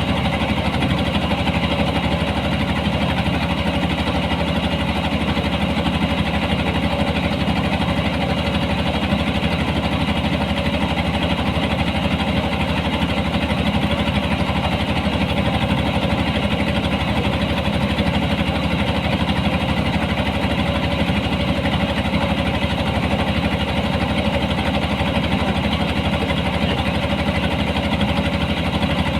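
Engine of a rice-harvesting machine running steadily at a constant speed.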